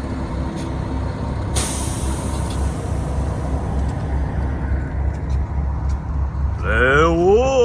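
A heavy engine idles with a steady, pulsing low rumble, and about a second and a half in there is a short sharp hiss of air release. Near the end a man's voice calls out, rising in pitch.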